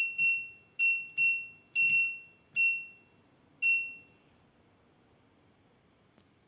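LG washing machine control panel giving short, high electronic beeps, eight in about four seconds at uneven intervals, each fading quickly.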